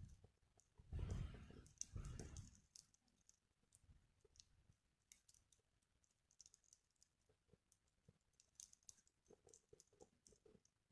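Wood fire burning in a Picogrill 398 fire pit, with faint scattered crackles and small pops. A louder rush of noise comes in the first two seconds or so.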